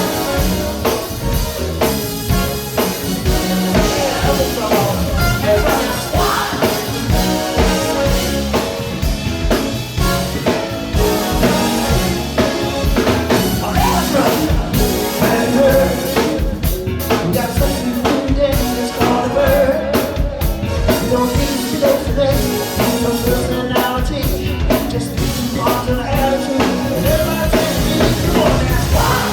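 Live band playing an up-tempo funk song, drum kit keeping a steady beat under singing.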